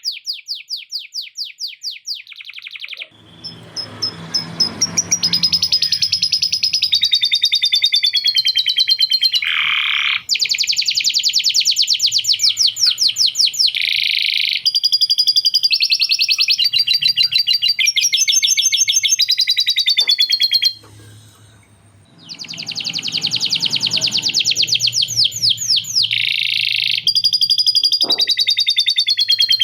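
Male canary singing a long, loud, unbroken song of rapid rolling trills and warbled phrases. The song is filled in with lovebird-style chattering (ngekek) phrases the bird has learned. The song pauses briefly once about two-thirds of the way through.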